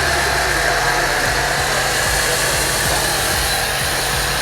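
Portable car washer's foam gun spraying wax foam onto a car: a steady hiss of air and spray over the machine's running motor.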